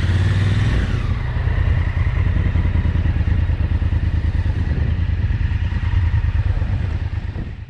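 Motorcycle engine running at low speed over a rough dirt track, a steady deep pulsing rumble with clatter from the bike over the ground. It cuts off abruptly at the end.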